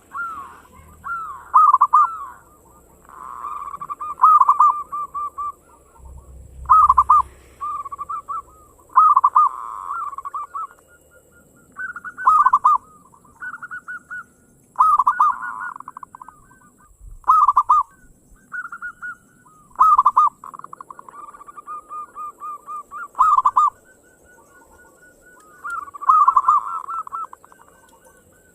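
Zebra dove (local perkutut) cooing: short phrases of quick, rattling staccato coos repeated every one to three seconds.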